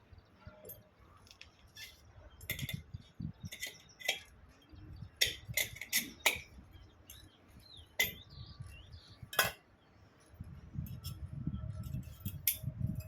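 Metal pump parts clinking and knocking together as a multistage high-pressure pump's shaft, impellers and bowls are handled and fitted: a series of separate sharp metallic clinks, the loudest a few seconds apart in the middle.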